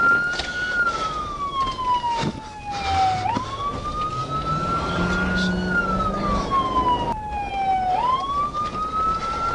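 Emergency vehicle siren wailing, its single tone sliding slowly down and back up in pitch about every four to five seconds.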